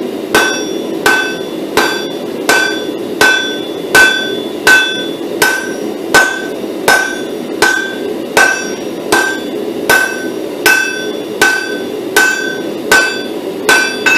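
Steady, even hammer blows on an anvil, about three strikes every two seconds, each with a short bright ring, as a stacked pattern-welded steel billet is drawn down into a smaller square bar.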